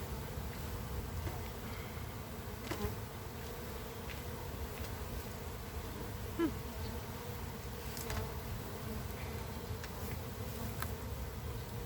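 A mass of Russian honeybees buzzing as a steady hum, with a few faint clicks.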